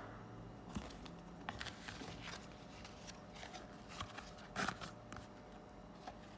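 Faint crinkling, rustling and light taps of card packaging being handled, with a louder rustle about four and a half seconds in.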